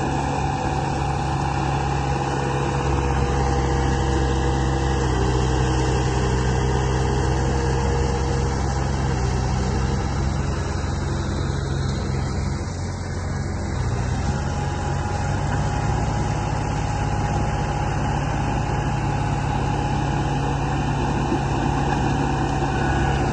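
Radio-controlled model construction machines running: a steady motor hum with several whining tones that shift in pitch a few times.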